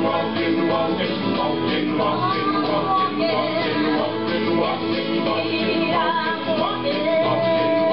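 Acoustic band playing live: guitars strummed under a melody line.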